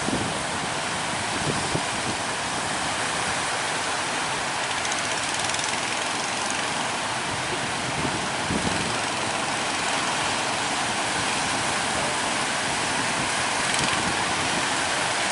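Steady roar of large surf breaking at a river mouth.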